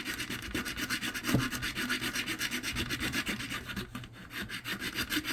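Hacksaw cutting through the plastic casing of a chart plotter's SD card reader in fast, even back-and-forth strokes, letting up briefly about four seconds in.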